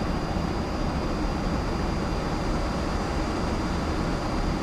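Steady rush of airflow and engine noise inside an Airbus A330 cockpit on final approach, with a faint constant high whine running through it.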